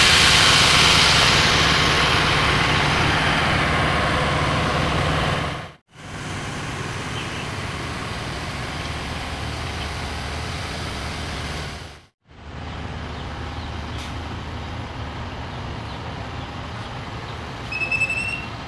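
Passenger train running noise: a steady rumble with a low hum, heard in three short clips that cut out between them, the first the loudest. A brief high squeal comes near the end.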